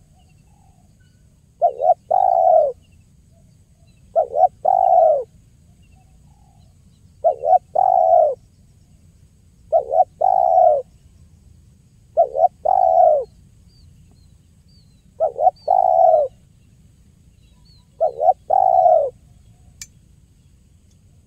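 Spotted dove (tekukur) singing its cooing song, about seven phrases repeated every two and a half to three seconds, each two short notes followed by a longer one. Faint high chirps of other small birds sound in the background, and a single click comes near the end.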